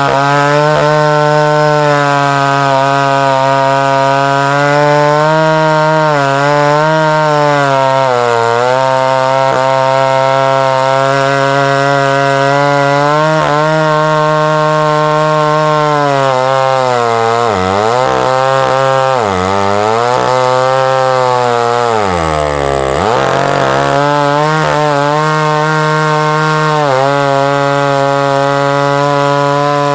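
Large Husqvarna two-stroke chainsaw running at high speed while ripping a log in a chainsaw mill. The engine pitch dips briefly several times as the cut loads it down, then climbs back.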